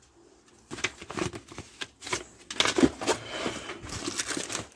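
Paper and plastic packaging rustling and crinkling in short, irregular crackles as items are handled and unpacked by hand, starting about a second in.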